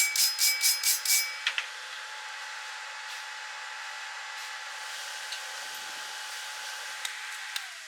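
Rapid rhythmic scraping strokes, about four or five a second, stop about a second in. A steady machine hum follows and winds down in pitch near the end.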